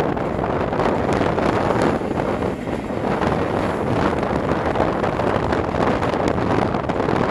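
Passenger train carriages running along the track, with heavy wind buffeting the microphone held out of the coach window. The noise stays steady and dense throughout.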